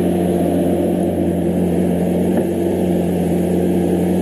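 Sports car engine running loudly at a steady, unchanging pitch.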